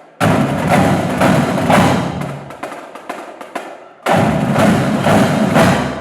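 A drum line playing: rapid drum strokes in two loud passages. The first breaks off about two and a half seconds in, and the second starts about four seconds in.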